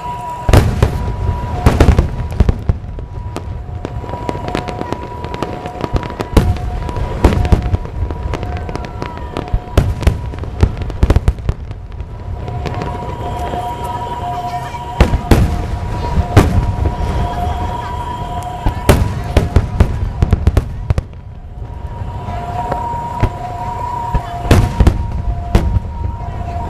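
Aerial fireworks bursting in rapid succession: many sharp bangs and crackles over a continuous low rumble, with a steady two-note tone sounding on and off in the background.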